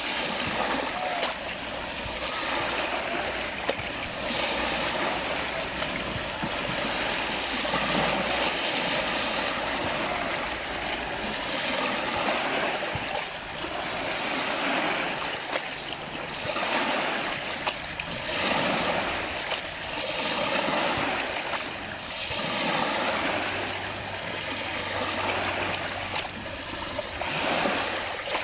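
Lake water washing in small waves, the noise swelling and fading every two to five seconds.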